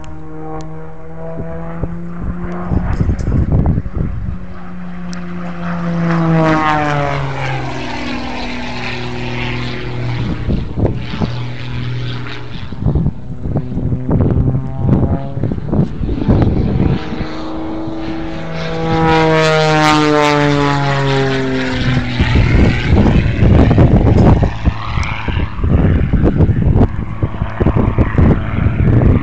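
Propeller airplane engine flying past twice, its pitch dropping as it goes by each time. Wind buffets the microphone, more heavily toward the end.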